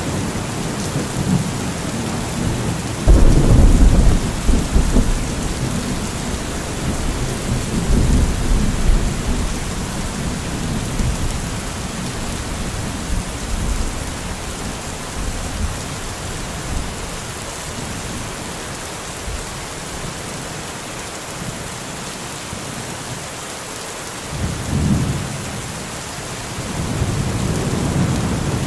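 Steady heavy rain in a thunderstorm, with rolling thunder. The loudest rumble comes about three seconds in and lasts a couple of seconds, with weaker rumbles around eight seconds and near the end.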